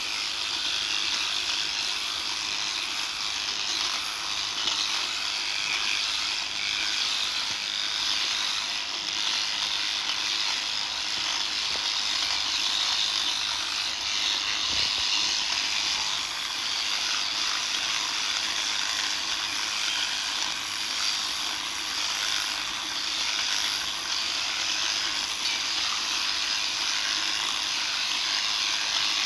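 Electric sheep-shearing clippers running steadily as they shear the wool off a sheep, a continuous high buzz with no break.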